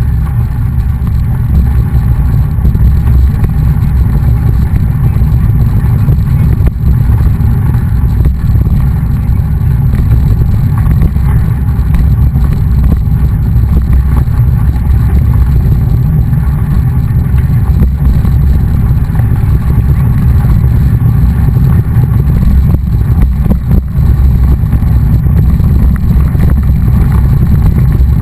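Steady, loud wind rumble buffeting the microphone of a camera carried on a moving bicycle, with no words over it.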